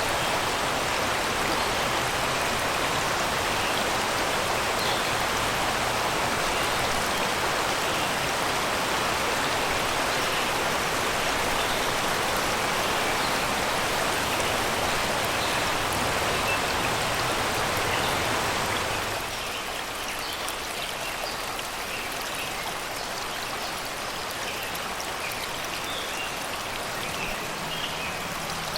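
Shallow river water flowing steadily over rocks and stones, a continuous rushing babble; about two-thirds of the way through it drops a little quieter. Faint birdsong chirps over the water.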